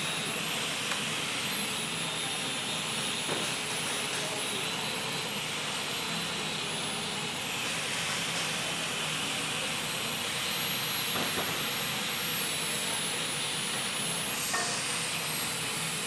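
Steady workshop machine noise: an even hissing rush with a high thin whine that slowly wavers in pitch, and a few faint clicks.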